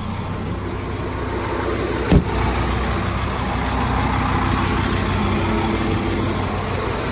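Scania diesel engine of a Rokbak articulated dump truck running steadily, its low-DEF fault cleared after a DEF header replacement and no warning horn sounding. There is a single sharp knock about two seconds in, after which the engine runs a little louder.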